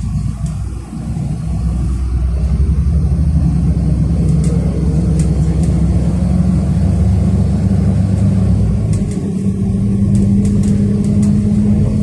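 City bus engine and drivetrain heard from inside the passenger cabin while the bus drives, a steady low drone. It swells about a second or two in as the bus pulls away or speeds up, then holds steady.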